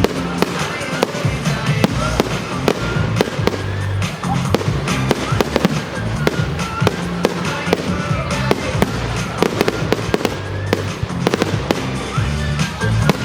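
Fireworks display: a dense run of bangs and crackles throughout, over music with a steady bass line.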